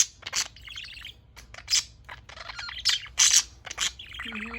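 Pet budgerigars (parakeets) chattering: a rapid run of short, high-pitched chirps.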